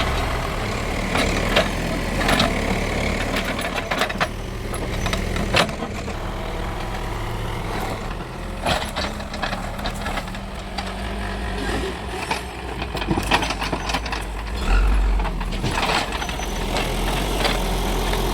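JCB backhoe loader's diesel engine running steadily while it works, with scattered short knocks and scrapes.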